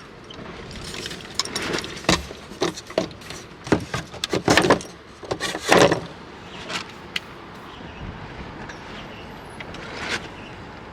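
A run of sharp knocks, clicks and rattles lasting about five seconds, then steady background noise with one more knock near the end.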